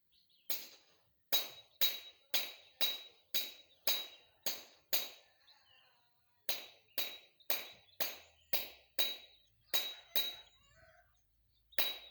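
Repeated strikes of a metal tool, each with a short ringing ping, about two a second. They come in a run of nine, a pause of about a second and a half, a run of eight, and two more near the end.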